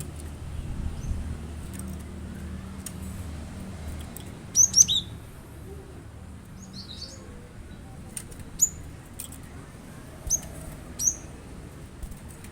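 Cinereous tit (gelatik batu) giving quick, high, sharp chirps in scattered bursts, the loudest a fast cluster of notes about four and a half seconds in, then single calls near the end. A low background rumble runs underneath, heaviest in the first few seconds.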